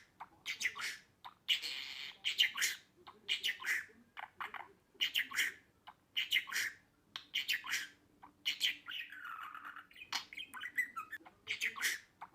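Budgerigars chattering: quick bursts of chirps, squawks and warbling that follow one another with only short pauses.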